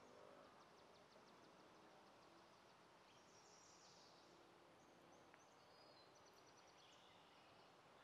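Near silence: faint outdoor ambience with small birds giving high-pitched chirps and a quick ticking trill now and then.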